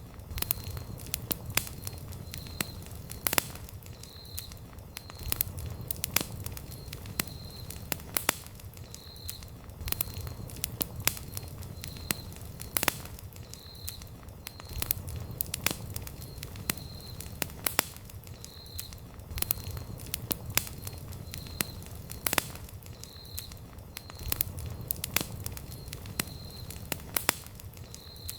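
Wood campfire crackling: irregular sharp pops and snaps of burning logs over a steady low rumble of flame.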